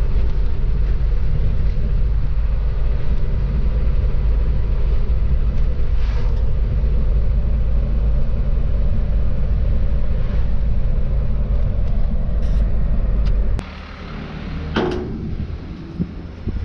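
Isuzu NPS truck driving: a steady low rumble of engine and road noise, which drops away abruptly about three-quarters of the way through, leaving a few quieter knocks and rustles.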